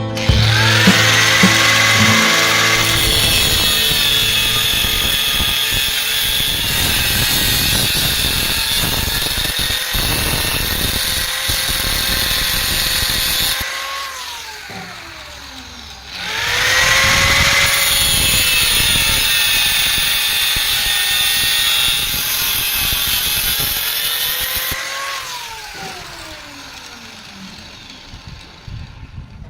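An electric power tool run twice on metalwork. Each time its motor whines up to speed, runs with a loud, harsh, hissing sound for about ten seconds, then winds down with a falling whine.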